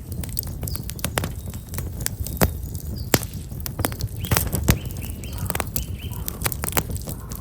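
Wood fire of black locust logs crackling and popping with sharp, irregular snaps over a low rumble. Small birds chirp briefly a few times in the second half.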